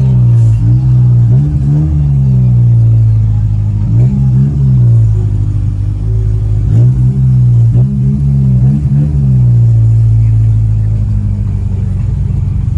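Car engine being revved in short blips, its pitch rising and falling back several times, then settling to a steady idle for the last few seconds.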